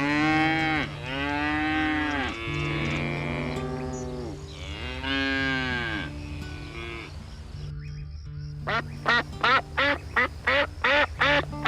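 A cow mooing four times in long, arching calls. From about nine seconds in, a duck quacks in a quick run of short calls. Soft background music with a steady low tone runs underneath.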